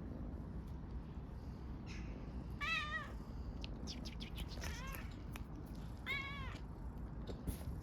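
A kitten meowing three times: short, high-pitched meows about a second and a half to two seconds apart. They are the meows of a stray kitten asking for food and attention.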